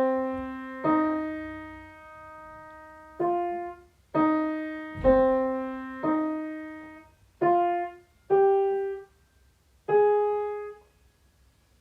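Piano playing a slow melody one note at a time, about nine notes, each struck and left to fade.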